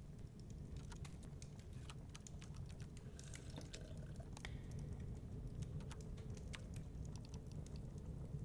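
Wood fire crackling, with irregular small pops and snaps, over a steady low rumble of blizzard wind.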